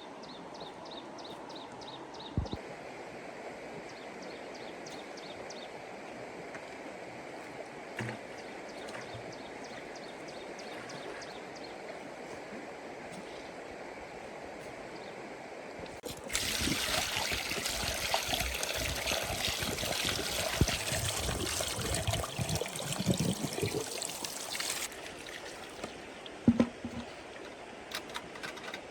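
Water trickling and flowing, then about sixteen seconds in a much louder rush of splashing, pouring water with knocks in it for about eight seconds before it drops back to the trickle.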